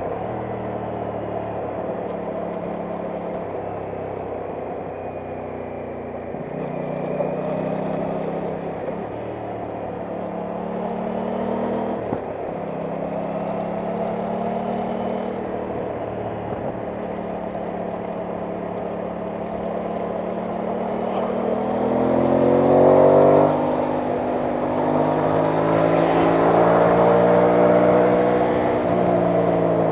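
Aprilia Tuono 660 Factory's parallel-twin engine running under way, its pitch stepping up and down with throttle and gear changes. It climbs under acceleration about three-quarters of the way in, which is the loudest part.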